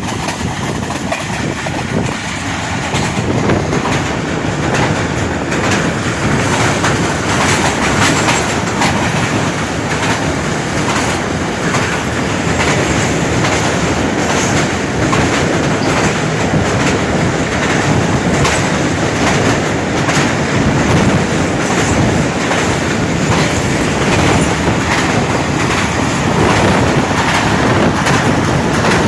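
A passenger train running at speed: its wheels clatter steadily over the rail joints under a loud, continuous rumble of the carriages.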